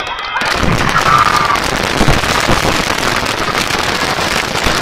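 Fireworks display: a dense, continuous barrage of crackling and sharp bangs, many reports overlapping with no break.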